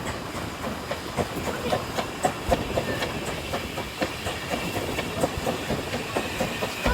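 Narrow-gauge Ffestiniog Railway train running along the track: a steady rumble with irregular clicks and knocks of the wheels over the rail joints.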